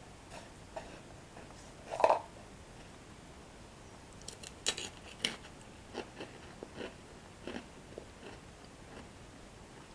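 Toasted bread sticks with cocoa cream being bitten and chewed close to the microphone. There is a loud bite about two seconds in, a run of sharp crunches around the middle, then softer, scattered chewing.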